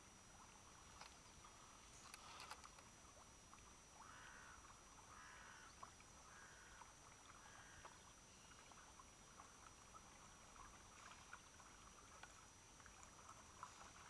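Near silence, with faint scattered clicks and four short, soft rustling sounds about four to seven seconds in.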